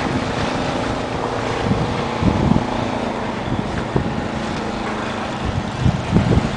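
Wind buffeting the microphone in gusts, over a steady outdoor rumble that may be street traffic.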